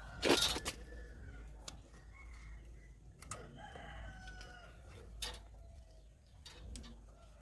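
Rooster crowing in the background, several drawn-out calls. A loud short clatter comes just after the start, and a few sharp knocks follow later.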